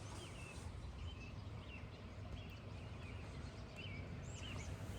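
Birds calling outdoors: many short, high chirps scattered throughout, over a low steady background rumble.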